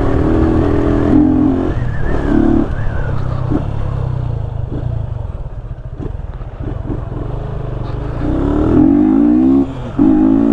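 The single-cylinder engine of a 2020 Yamaha Fazer 250, running without its air filter, pulls steadily at first and then drops back to a low run with a few light clicks. About eight seconds in it revs up hard in a rising sweep, broken by a quick gear change near the end.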